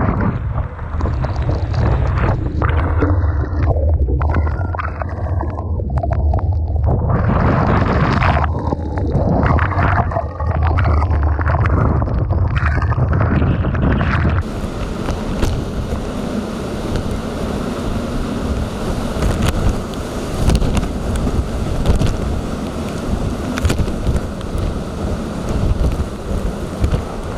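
Typhoon-force wind buffeting the microphone over crashing storm-surge waves, in heavy low gusts. About halfway through the sound changes abruptly to a steady, even hiss of wind and surf.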